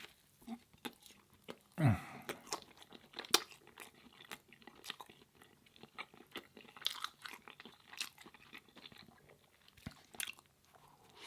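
Close-miked chewing and crunching of a person eating, with irregular wet clicks and crunches of the mouth and food. There is a brief low voiced sound falling in pitch about two seconds in.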